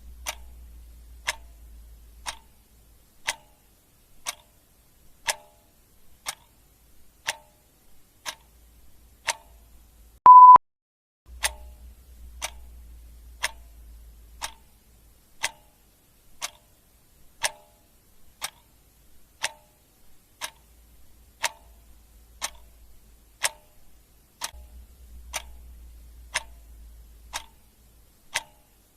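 Clock ticking sound effect, an even tick about once a second. About ten seconds in a short, loud beep sounds once, the loudest thing here.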